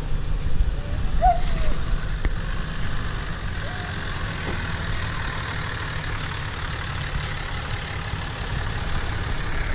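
Lifted pickup truck's engine running with a steady low rumble, louder in the first couple of seconds, with a few faint short squeaks.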